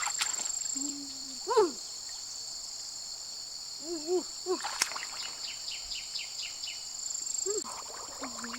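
Steady, high-pitched outdoor insect chorus. A few short rising-and-falling calls sound over it, about one and a half, four and seven and a half seconds in, with a sharp click near five seconds in.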